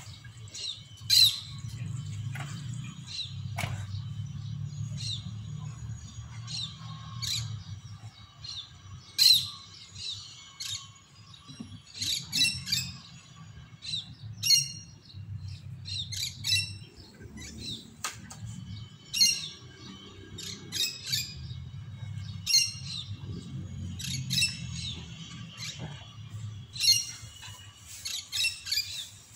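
Birds chirping and squawking in short, sharp calls, repeated every second or so, over a low steady rumble.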